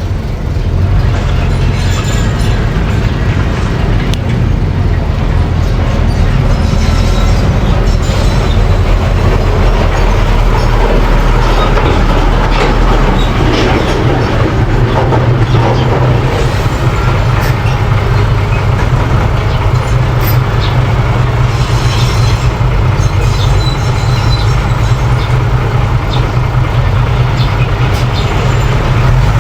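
A mini bulldozer's engine running steadily under work, with scattered clanks from the machine over a constant low drone.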